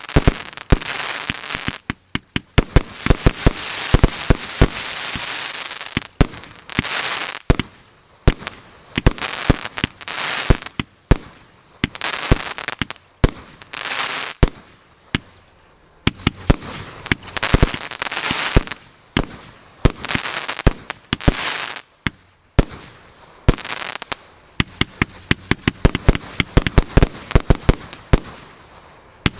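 A 150-shot, 1.2-inch fireworks cake firing a rapid, uneven run of sharp shots and bursts. Between them are stretches of dense hiss lasting one to three seconds each.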